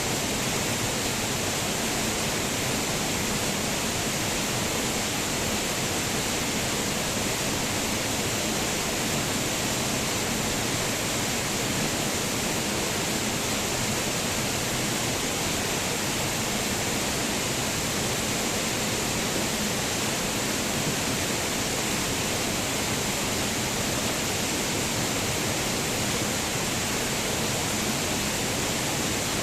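Waterfall: a steady rush of falling water, even and unchanging, with a bright hiss on top.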